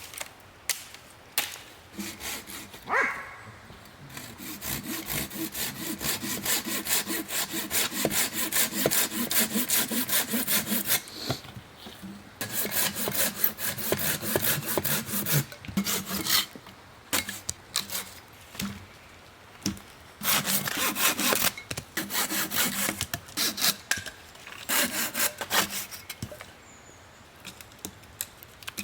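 Hand saw cutting through wood in quick back-and-forth strokes, in several runs with short pauses and a few knocks in between.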